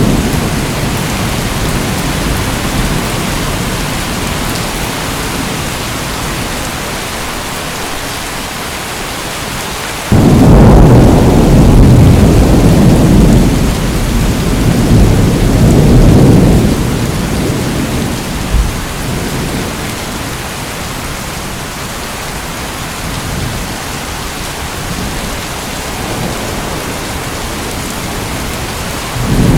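Steady heavy rain hiss with thunder: a deep rumble breaks in suddenly about a third of the way through, swells for several seconds and fades away, and another roll begins right at the end.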